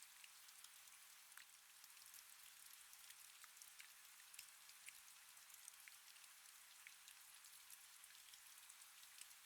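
Faint steady rain: a soft hiss with many small drops ticking irregularly.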